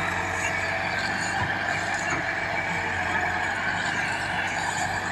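A vehicle engine running steadily, with a constant low hum under an even hiss.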